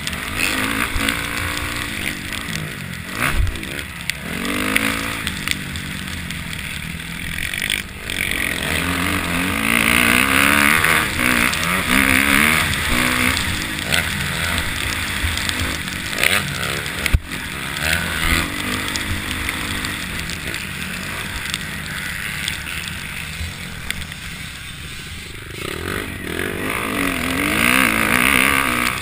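Several motocross bikes revving hard as they ride the track, their engine pitch climbing and dropping over and over as they accelerate, shift and ease off. The engines grow louder as bikes come close, about ten seconds in and again near the end.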